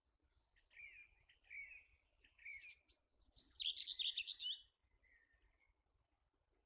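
A songbird singing: three short warbled phrases, then a louder, higher trilling phrase about three and a half seconds in, and a faint final note.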